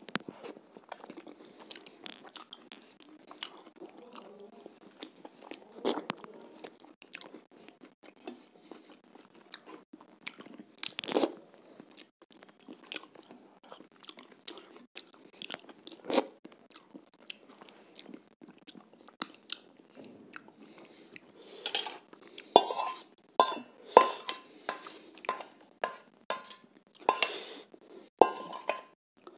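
Close-up chewing and crunching as chicken curry is eaten by hand, in scattered soft clicks and smacks. About three quarters of the way in, a rapid run of loud ringing clinks and scrapes starts: a steel spoon knocking against a steel pot while more curry is served onto the plate.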